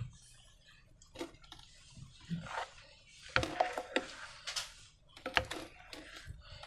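Slime being handled by hand, giving irregular sticky clicks and short squelching crackles.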